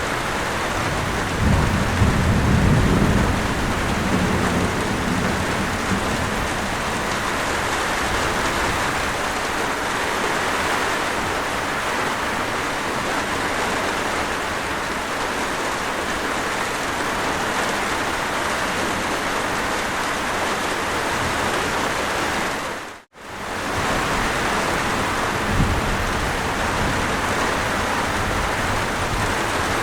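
Steady heavy rainfall, with a low rumble of thunder in the first few seconds. The sound cuts out completely for a split second about two-thirds of the way through, then the rain carries on.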